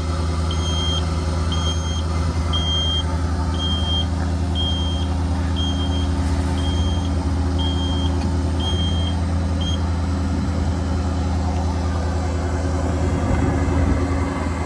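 A Ford 6.7L Powerstroke V8 diesel idling steadily, with a high electronic warning beep sounding about once a second. The beeping stops about ten seconds in.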